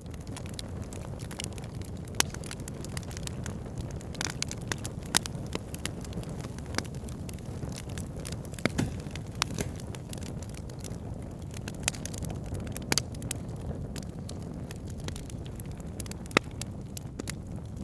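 Fire burning in a fireplace: a steady low rush of flames with frequent sharp crackles and pops, a few of them loud snaps scattered irregularly.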